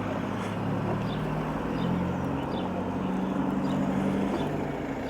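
A motor vehicle engine running at idle, its pitch shifting slightly up and down.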